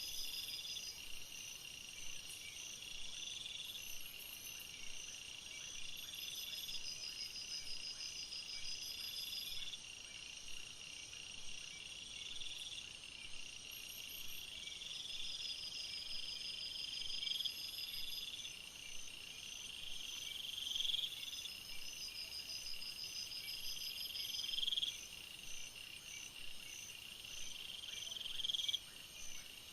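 Chorus of calling insects such as crickets: a high call that swells and then cuts off about every two and a half seconds, growing louder through the stretch, over steady high, rapidly pulsing trills.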